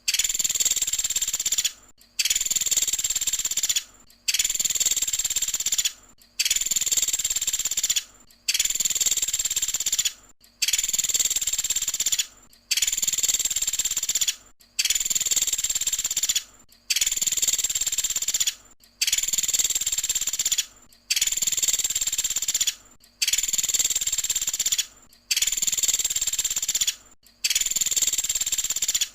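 Looped recording of a woodpecker ('pelatuk sampit') call used as training audio: a high, even, rapid-fire call lasting about a second and a half, repeated identically about every two seconds with short silent gaps.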